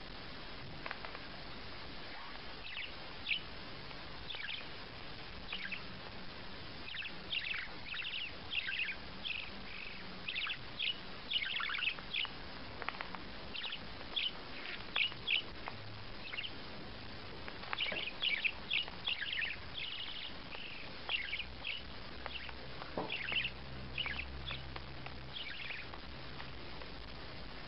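A small bird chirping: many short, high chirps that drop in pitch, coming in quick irregular runs, over a steady background hiss.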